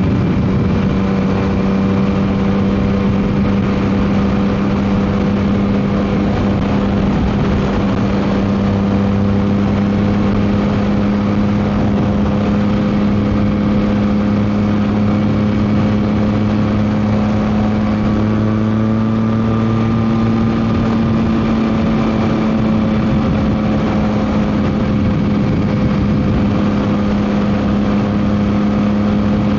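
Yamaha MT-09 SP's inline-three engine through a Dominator GP aftermarket exhaust, running at a steady engine speed with a slight rise in pitch about two-thirds of the way through, with wind noise over it.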